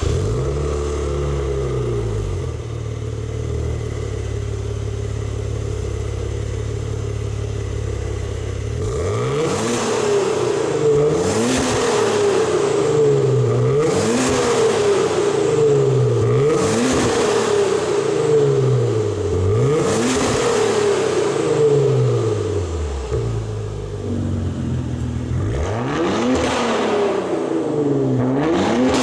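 Maserati Quattroporte 3.0 V6 turbo running through a catless downpipe and valved Xcentric exhaust. It idles steadily for about nine seconds, then is blipped again and again, about every two to three seconds, each rev climbing and falling back.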